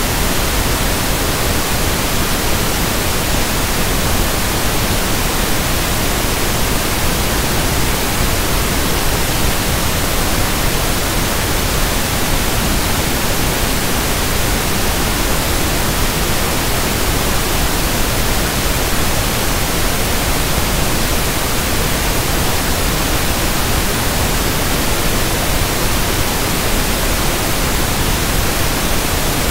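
Steady, unchanging pink noise (1/f noise): an even hiss spread across all pitches, with no events or variation.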